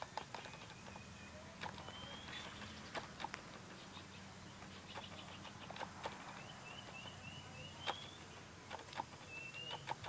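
Outdoor ambience with a small bird giving short rising chirps now and then, including a quick run of five about three-quarters of the way through, over scattered soft clicks and a faint steady hum.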